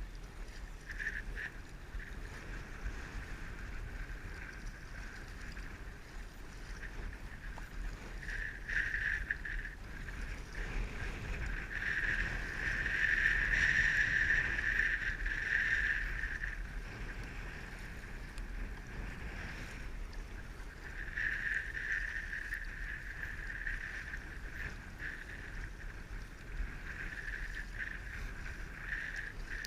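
Water washing and splashing along a kayak's hull while out on open water, swelling and fading unevenly, loudest about twelve to sixteen seconds in.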